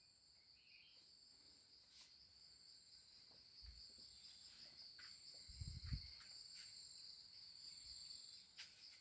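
Faint, steady chirring of insects, an even high-pitched drone. A few soft low thumps come in about four and six seconds in, the one near six seconds the loudest.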